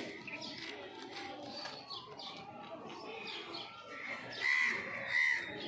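Birds chirping over and over, with two louder, harsher calls near the end.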